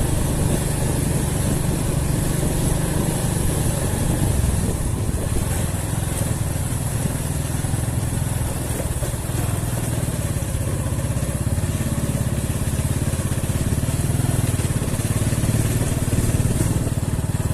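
Motor vehicle engine running steadily while travelling along a road, a low rumble with road and wind noise over it.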